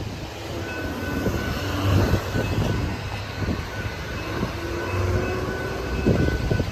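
Level crossing electronic bell ringing in repeated high tones while a train rumbles past.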